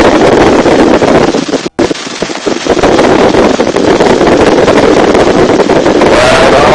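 Helicopter in flight heard from inside a cabin with an open side: loud rotor and engine noise mixed with heavy wind buffeting the microphone. The sound cuts out for an instant a little under two seconds in.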